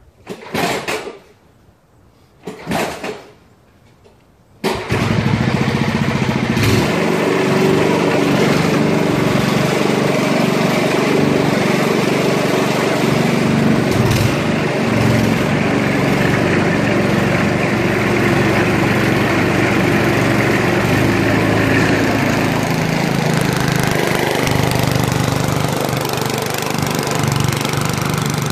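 1971 Ariens 7 hp snowblower's single-cylinder Tecumseh engine being restarted: two brief bursts of cranking, then the engine catches about five seconds in and runs steadily.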